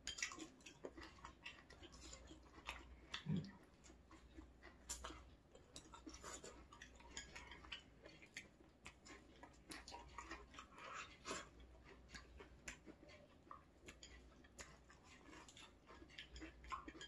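Faint, close-miked chewing of squid and green-onion pancake: soft, irregular clicks and smacks of eating.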